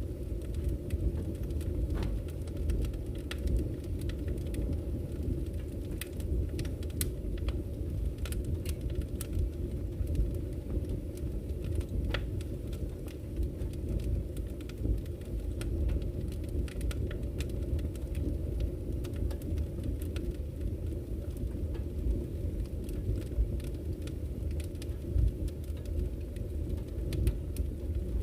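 Wood fire burning in a fireplace: a steady low rush of flame with scattered sharp crackles and pops from the burning logs.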